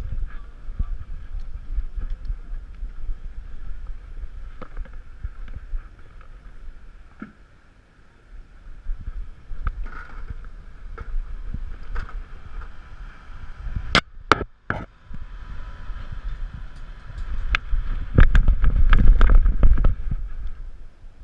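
Rumbling buffeting and rubbing noise on the microphone of a GoPro strapped to a dog's harness as the dog moves about. A few sharp knocks come a little past the middle, and the rumbling is loudest near the end.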